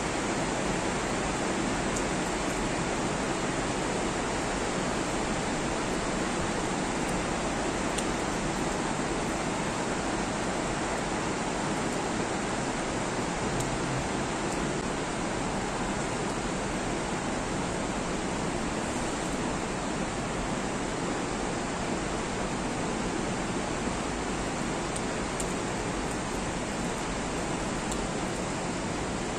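Steady rain falling, an even hiss with no change throughout.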